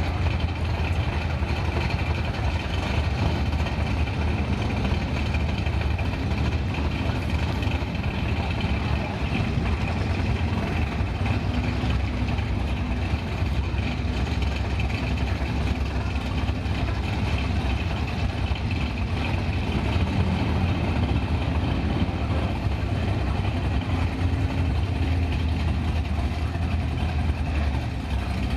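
Big-block V8 drag car engine idling steadily, without revving.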